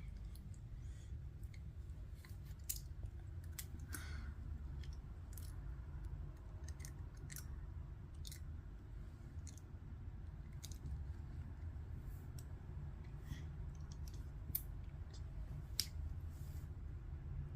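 Plastic Lego bricks being handled and pressed together: scattered light clicks at irregular intervals over a steady low background hum.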